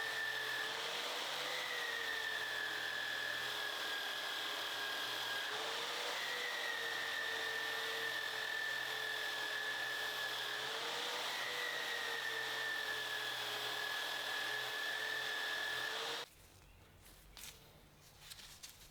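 Electric power tool motor running with a steady whine and an abrasive hiss, its pitch sagging and recovering every few seconds as it is pressed onto the rusted blade. It is switched off suddenly near the end, leaving only faint handling sounds.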